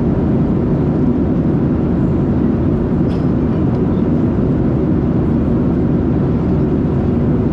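Steady low rumble of cabin noise inside a Boeing 737-700 in flight, from the engines and the airflow over the fuselage.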